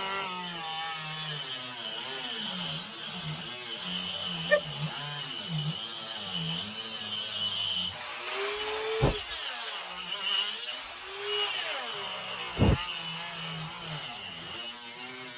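A small power tool cutting into wood hard enough to make it smoke. Its pitch sags and recovers as it bites, over a steady high whine, with two dull knocks in the second half.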